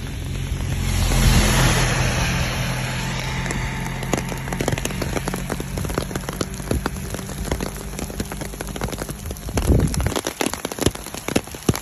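Rain falling, with many sharp taps of drops striking close to the microphone. A vehicle engine hums steadily underneath and stops about nine and a half seconds in.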